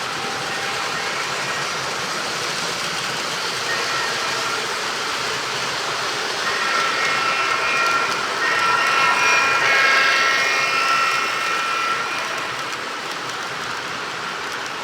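Model freight train running on the layout track: a steady rattle of wheels on rail with an electric motor whine. The whine grows louder about halfway through and fades again a few seconds later.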